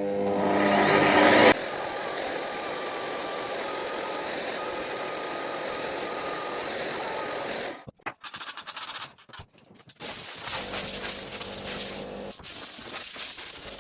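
Magnetic drill running and cutting through a steel wheel rim. The cutting sound is steady for about eight seconds, breaks off, then comes back in two shorter runs near the end.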